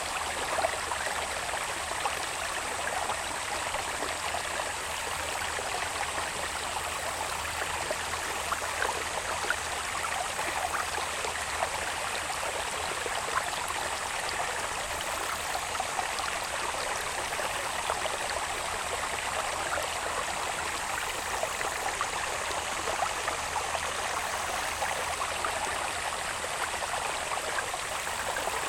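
Water running steadily down a small irrigation channel, with a constant babbling rush flecked with little splashes. A thin, steady high-pitched insect trill from the grass runs under it.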